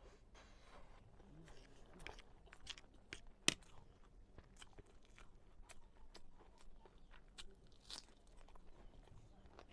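Close-miked chewing and crunching of food in the mouth, made up of many small wet clicks and crackles. One sharp click stands out about three and a half seconds in, and there is a crunchy bite near the end as a slice of raw onion is bitten.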